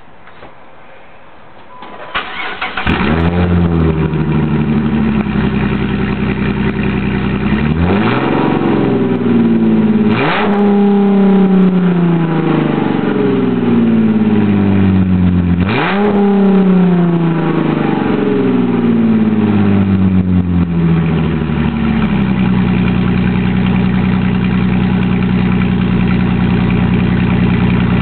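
2007 Dodge Charger SE's 3.5L V6 running with no exhaust past the headers (no catalytic converters, Y-pipe or pipes), so it is loud and raw. It cranks and catches about two seconds in, is revved three times with quick rises that sink slowly back, then settles into a steady idle.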